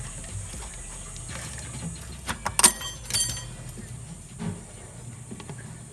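Metal tools clinking against radiator hose clamps: a quick cluster of sharp, ringing metallic clicks about two and a half to three seconds in, then a softer knock, over a steady low hum.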